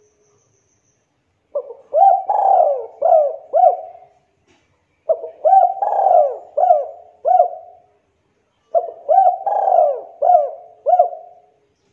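Spotted dove (tekukur) cooing in its 'kuk 2' song: three phrases a few seconds apart, each a run of five or six low coos with a quick upward hook.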